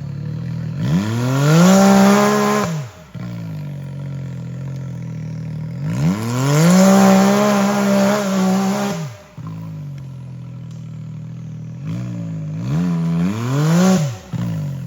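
Side-by-side UTV engine idling and revved three times. Each rev climbs in pitch, holds for a second or two, then drops sharply back to idle as the throttle is released.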